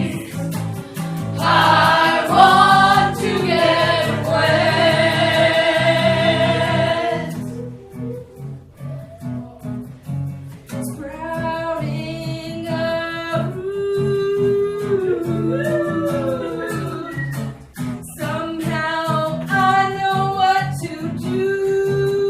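Live band music: singing in long held notes over strummed guitar and a steady low chord. About a third of the way in the voices drop out briefly, then the singing comes back with notes that slide up and down.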